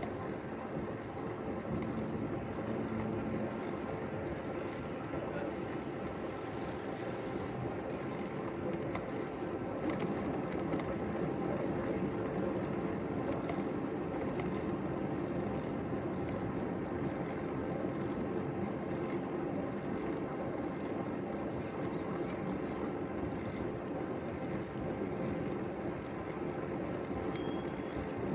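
Steady rolling noise of a bicycle being ridden along a park path, with no pauses or sudden sounds.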